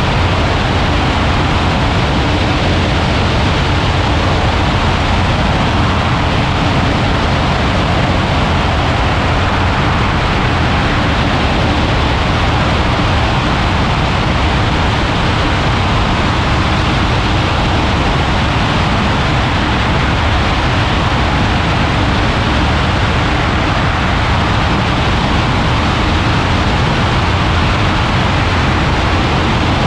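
Ultralight aircraft in flight: a loud, steady rush of wind over the microphone mixed with the low drone of the engine.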